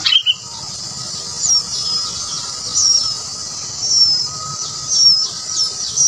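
Short, high bird chirps repeat about once a second over a steady high-pitched insect drone, with a brief, sharp falling squeak right at the start.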